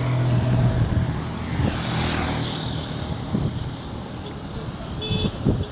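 A road vehicle's engine running as it passes by, with a low hum at first and a rush of tyre and wind noise swelling about two seconds in, then fading.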